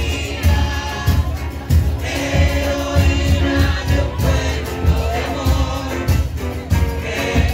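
A murga's choir of voices singing a song together over a steady beat of low drum thumps.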